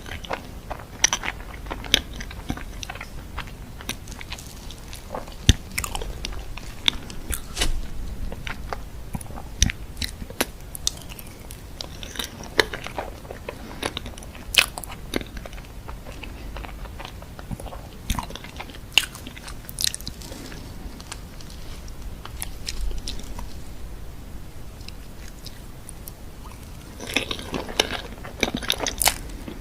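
A person biting and chewing food, with many sharp, irregular crunches.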